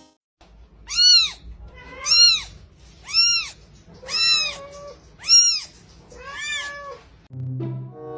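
A cat meowing six times, about once a second, each meow rising and then falling in pitch.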